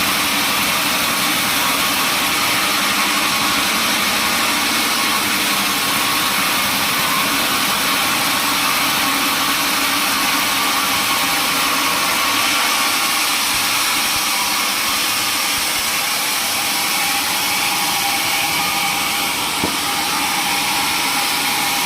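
Sawmill machinery running steadily: a loud, even mechanical noise with a constant hum and no break or change in pitch. A single small click comes near the end.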